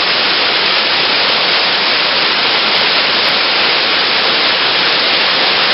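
Steady, even rush of falling water from a waterfall, loud and unbroken.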